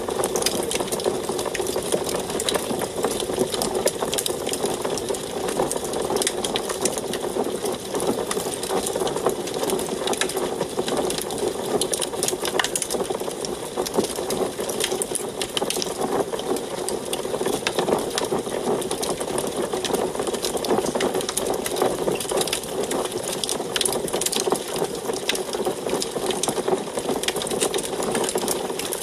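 Wood fire burning in an antique wood stove: dense, rapid crackling and snapping throughout, over a steady rushing sound.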